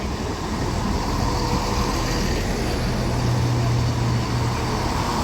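CrossCountry Class 170 Turbostar diesel multiple unit approaching, its engine hum and running noise growing steadily louder.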